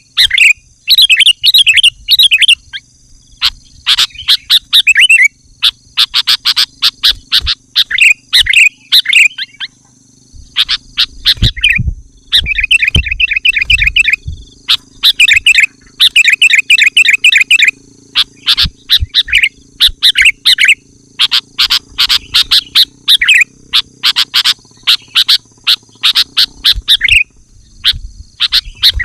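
Sooty-headed bulbuls calling loudly and continuously in fast, chattering phrases of short bright notes, one burst after another with brief gaps.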